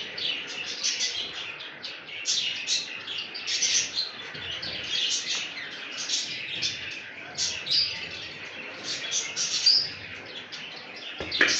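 Budgerigars chirping and chattering continuously in a rapid, overlapping stream of high, short calls.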